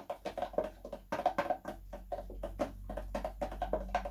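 Rapid, irregular clicking and tapping of a utensil against a bowl as slime is stirred and mixed.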